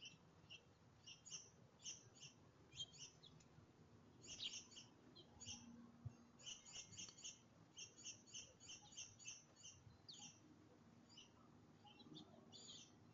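Small songbirds chirping faintly: a long run of short, high chirps, a few a second, that comes quicker and denser from about halfway through.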